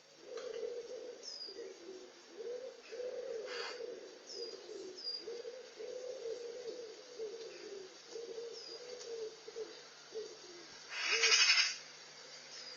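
Wood pigeon cooing, its low phrases repeated one after another for about eleven seconds, with faint short high chirps of small birds above it. About eleven seconds in, a brief loud burst of noise.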